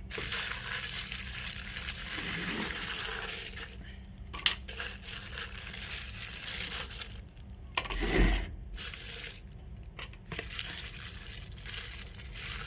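Rustling and light clinking as the freshly caught fish are handled in a container, with a sharp click about four and a half seconds in and a louder knock about eight seconds in.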